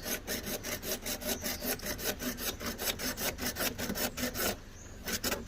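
Hand sawing through a hose tail in quick, even back-and-forth strokes, about four or five a second, with a short pause near the end before the strokes start again.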